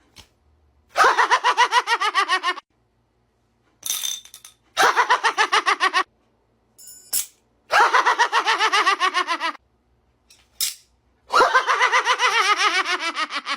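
Laughter in four bursts, each a quick run of pulsed voice sounds, the last one sliding down in pitch; a few faint short clicks fall between the bursts.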